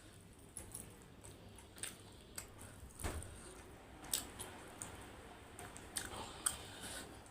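Close-miked chewing and mouth smacks of someone eating, a scattering of sharp wet clicks several times a second.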